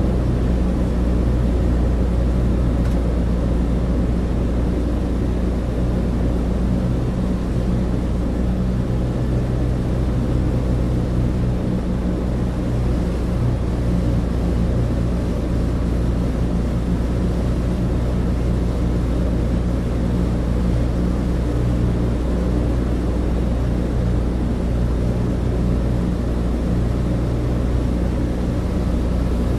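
Douglas DC-3 cabin interior: the steady drone of its twin radial piston engines and propellers, a loud, even hum of several low tones with no change in pitch.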